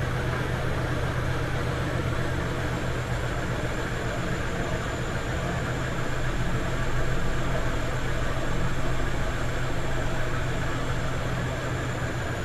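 Passenger ferry's engines running: a steady low drone and rumble, with a faint thin high whine above it.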